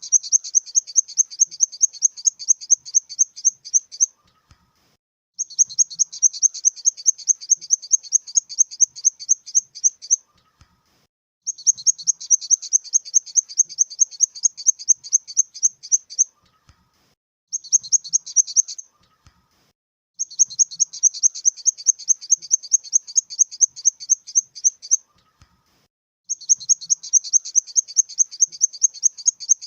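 Grasshopper stridulating: rapid, high-pitched pulses, about five a second, in runs of four to five seconds with pauses of about a second between them, and one much shorter run about halfway through.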